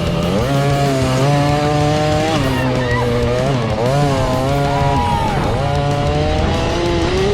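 Dirt bike engine revving hard and shifting up: the pitch climbs, holds and drops several times, over a rock music soundtrack.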